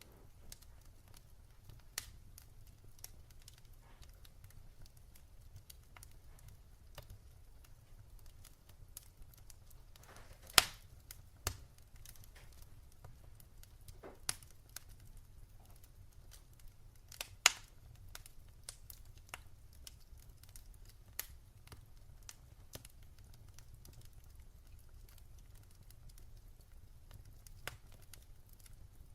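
Fireplace fire crackling: scattered sharp pops and snaps over a low, steady rumble, with two much louder snaps, one about a third of the way in and one a little past the middle.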